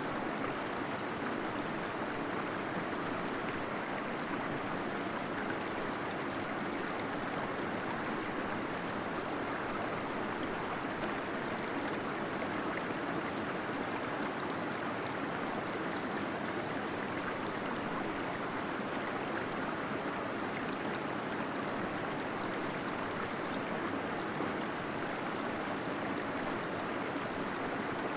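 Gentle waterfall in a cave: water falling and gurgling in a steady, even rush that never changes or breaks.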